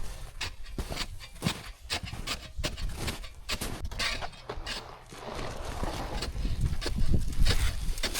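Snow crunching and scuffing in quick irregular crunches as someone moves through deep snow, then, about halfway through, a rushing scrape with a low rumble as of sliding over the snow.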